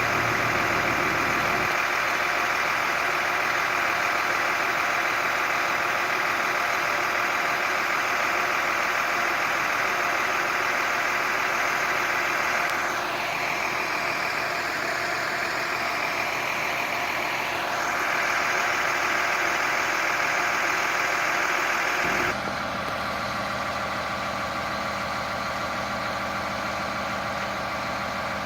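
Fire engine idling steadily, with a small dip in the middle and a step down in level and tone about three-quarters of the way through.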